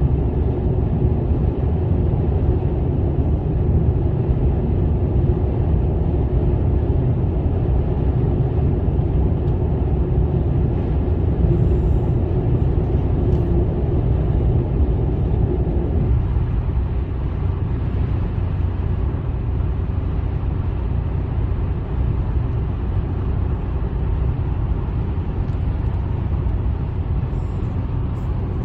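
Steady road and engine noise of a car driving, heard inside the cabin: a low, continuous rumble that turns a little quieter and duller about sixteen seconds in.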